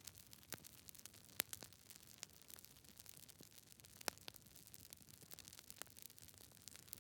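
Campfire burning with irregular crackles and pops over a soft hiss, two sharper pops standing out about a second and a half and four seconds in.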